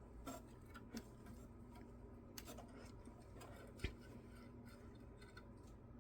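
Near silence broken by a few faint clicks and light taps, with one sharper tick a little before four seconds in, from small metal parts of a lawnmower carburetor being handled as its linkages are unhooked.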